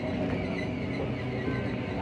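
Passenger train running steadily, heard from inside the carriage, with music playing over the noise.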